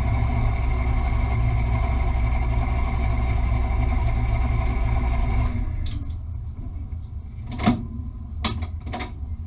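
Fox-body Ford Mustang's engine idling steadily, then cutting out abruptly about halfway through. Three short sharp knocks follow near the end.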